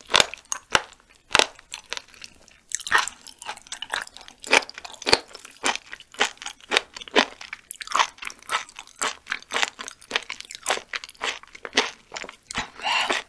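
Close-miked chewing of raw chicken gizzard, with many sharp, irregular crunches as the firm slices are bitten.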